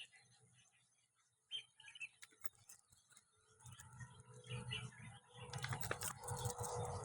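Faint short bird chirps, mixed with scattered light clicks and taps. A low rumbling handling noise builds up from about halfway through.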